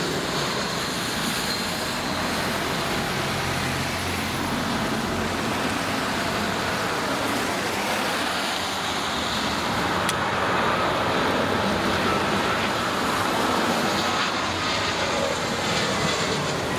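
Jet airliner engines running, a steady rushing noise with a faint high whine, swelling slightly about two-thirds of the way through.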